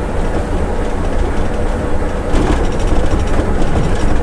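Scania bus heard from the driver's seat running downhill in fourth gear with the engine brake on: a steady low rumble of engine and road, with a brief rattle a little past halfway.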